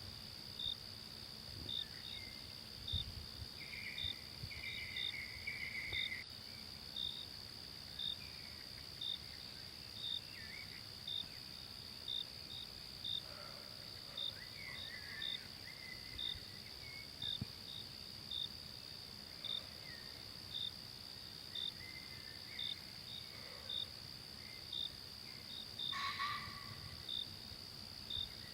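Forest insect chorus: a steady high-pitched buzz with a cricket chirping at an even pace, a little more than once a second. Scattered short bird calls come and go over it, with a louder call near the end.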